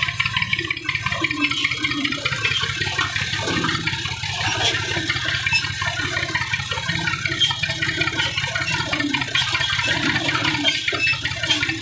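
Massey Ferguson 240 tractor's three-cylinder diesel running steadily under a loud rushing, splashing noise.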